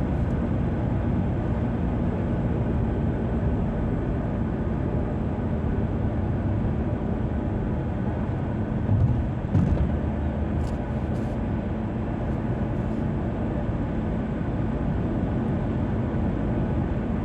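Steady road and engine noise of a car driving on a motorway, heard from inside, with a brief louder low bump about nine seconds in.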